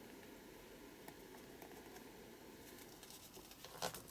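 Near silence: quiet room tone, with a few brief clicks and rustles of paper being handled near the end.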